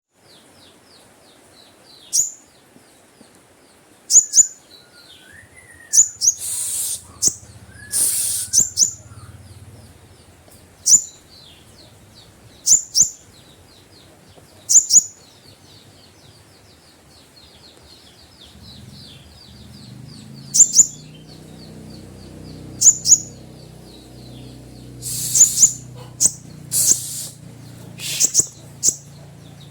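A konin (sunbird) calling: sharp, very high chirps repeated every couple of seconds, often in quick pairs, over a fainter continuous high twittering. A low hum sets in about two-thirds of the way through.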